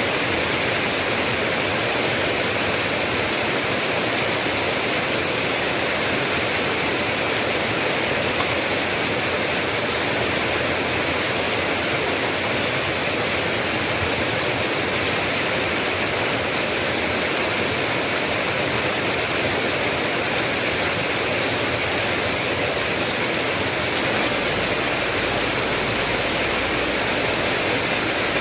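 Steady, heavy rain falling without a break, an even hiss with a little more low rumble near the end.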